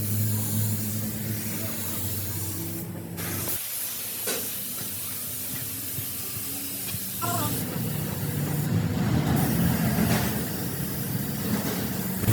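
Machinery running with a steady hum and a hiss over it. The sound changes abruptly twice, about a third and about two-thirds of the way through.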